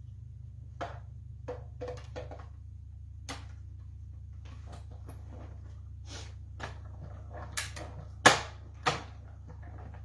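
Scattered clicks and knocks of metal dies and plastic cutting plates being handled at a manual die-cutting machine, thicker after about six seconds, with two louder knocks near the end, over a steady low hum.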